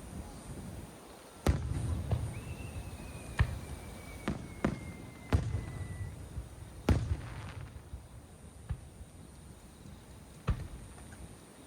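Aerial firework shells bursting, about eight sharp bangs at uneven intervals with low rumbling echoes. A thin whistle slowly falls in pitch for a few seconds in the first half.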